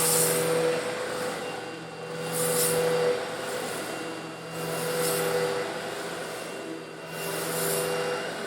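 Eureka vacuum cleaner running with a steady motor hum while sucking up coarse stone granules slightly larger than sand. A gritty hiss and rattle of the granules swells and fades about every two and a half seconds, four times.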